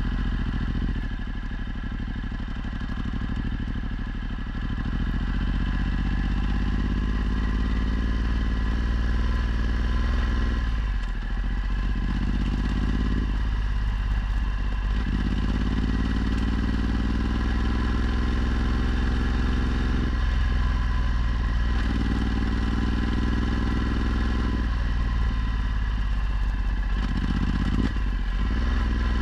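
Ducati Multistrada 1260's V-twin engine through a Termignoni exhaust, accelerating up through the gears: the pitch climbs, then drops at each shift, several times over.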